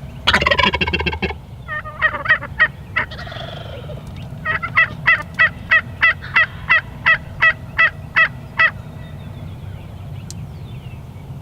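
Wild turkey gobbler gobbling loudly once, a rapid rattling call lasting about a second. Then a few short notes, and from about four and a half seconds in a run of about a dozen evenly spaced turkey yelps, roughly three a second.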